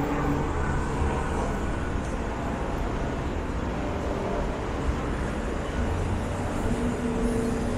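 City street traffic: passing vehicles make a steady low rumble, and a vehicle's engine hum comes in near the end.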